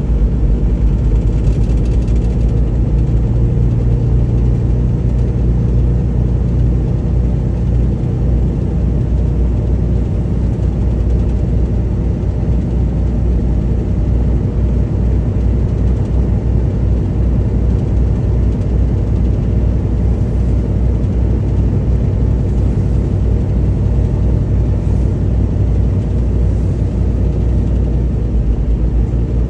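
Semi truck's diesel engine running steadily: a constant low rumble with a few steady low tones in it.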